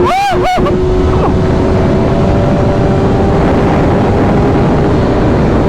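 BMW S1000RR inline-four motorcycle engine running at a steady cruise under heavy wind roar. The engine note drifts slowly upward, with two short rises and falls in pitch in the first half-second.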